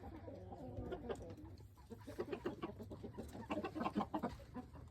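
Chickens clucking, with a steady low hum underneath.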